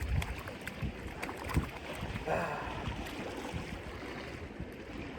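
Wind buffeting a phone microphone over the wash of sea water on rocks, with a brief louder wash about two and a half seconds in.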